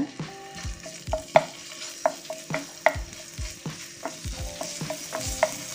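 Ginger-garlic paste sizzling in hot coconut oil in a non-stick frying pan, with a wooden spatula tapping and scraping the pan about twice a second as it is stirred. The sizzle grows louder in the last couple of seconds.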